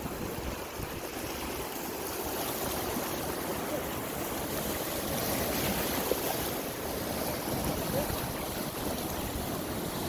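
Steady rush of sea water and waves.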